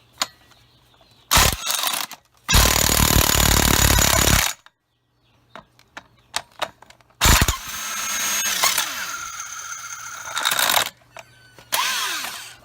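DeWalt impact wrench run in four bursts on the pulley bolt of a seized alternator, two short and two long, the last long run fading with a steady whine as the alternator turns. It was run the wrong way, but it broke the locked-up alternator free so that it spins.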